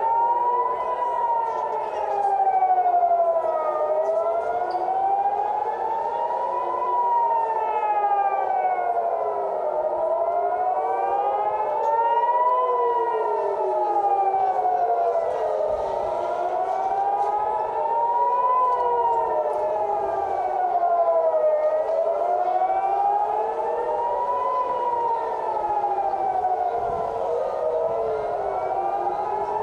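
Air-raid warning sirens wailing: several overlapping tones rise and fall together in slow cycles of about six seconds. They are the alert for an incoming missile attack.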